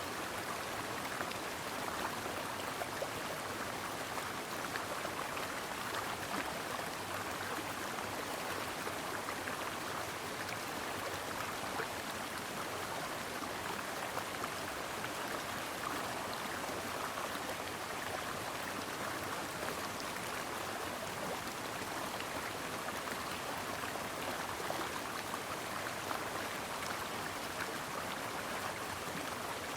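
Stream water running steadily over rocks, a constant rushing babble with fine splashing.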